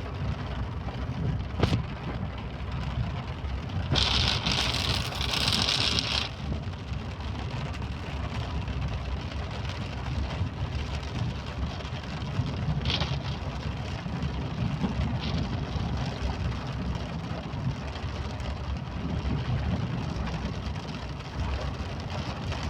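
A vehicle driving in rain: a steady low rumble of engine and road with rain hiss over it. About four seconds in, a louder hiss lasts some two seconds, and a few sharp clicks or knocks come through.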